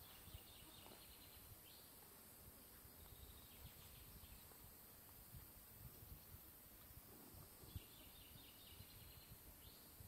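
Faint bird song: three phrases of rapid repeated high notes, each about a second and a half long, over a quiet background hiss.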